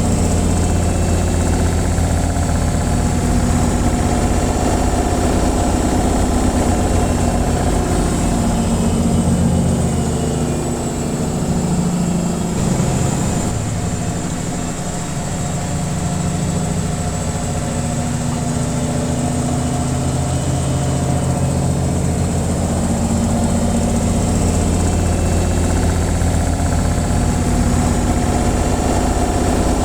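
Washing machine on its spin cycle: a steady low hum and rumble from the motor and drum, easing slightly about halfway through before picking back up.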